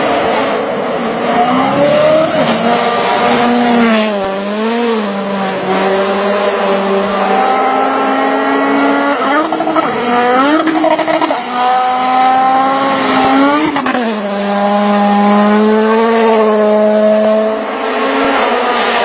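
Rally car engine running hard at high revs. Its pitch holds, then dips and climbs back sharply several times as the driver shifts gear and lifts off the throttle.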